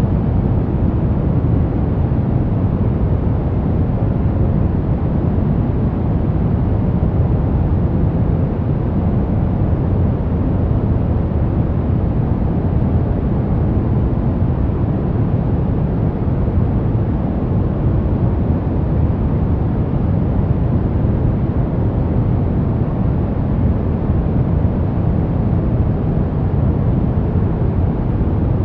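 Steady, unchanging white noise made for baby sleep, deep in tone with little hiss.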